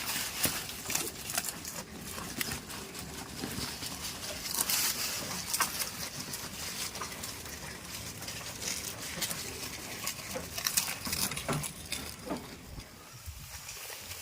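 Goats moving about: scattered clicks, light knocks and rustling.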